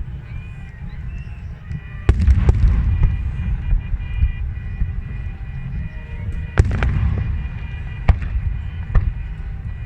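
Fireworks bursting overhead: a sharp bang about two seconds in and another past six seconds, each followed by a rumbling tail. Smaller bangs come near the end, over a constant low rumble.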